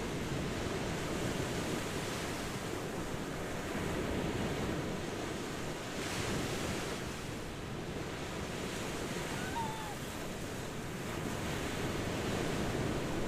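Ocean waves washing on a shore: a steady surf rush that swells and eases every few seconds.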